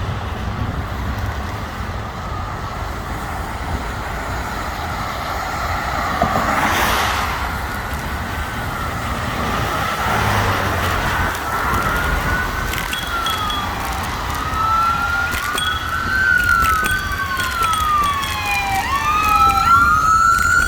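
Emergency vehicle sirens wailing, rising and falling in pitch. They start faint and grow louder, with two or more sirens overlapping in the second half.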